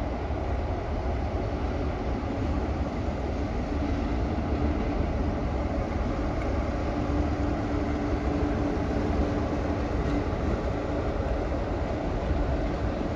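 A locomotive hauling a rake of coaches runs past on a far line: a steady low rumble, with a droning tone held for several seconds in the middle.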